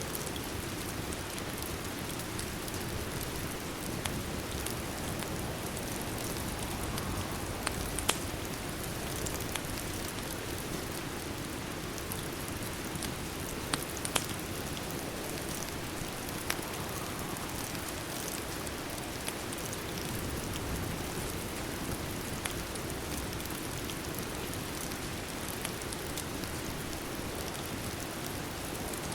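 Steady rain, with a fireplace crackling underneath; a few sharp pops stand out, the loudest about eight and fourteen seconds in.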